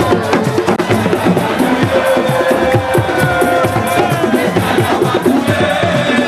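Fast, dense drumming with many quick strokes and voices over it, the loud music of a crowd celebration.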